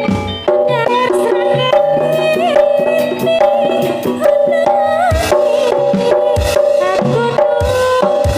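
Campursari band playing: hand-drum strokes and sharp percussion under a held melody line that slides and wavers in pitch.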